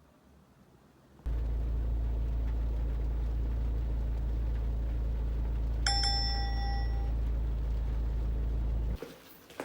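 Steady low rumble, like a vehicle in motion, that starts suddenly about a second in and cuts off suddenly near the end, with a single bell-like ding ringing out about halfway through.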